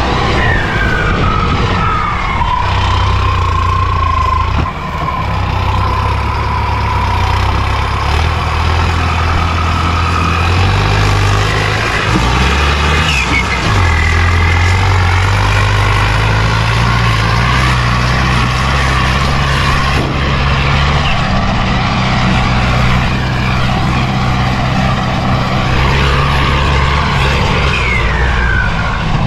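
Tractor engine running loud and steady, its pitch stepping up and down with the throttle, with a few falling high tones over it.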